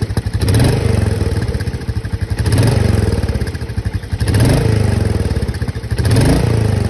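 Motorcycle engine running through an aftermarket slip-on silencer, blipped four times about two seconds apart, the note rising and falling back to idle each time.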